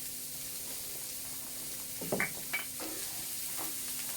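Food sizzling as it fries in a pan over a campfire, a steady hiss, with a few short stirring or scraping sounds about two seconds in.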